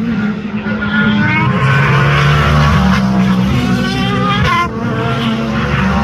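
Race car engines running hard as cars pass on the circuit, several engine notes overlapping. The pitch climbs for a few seconds as they accelerate, with a sudden change about four and a half seconds in.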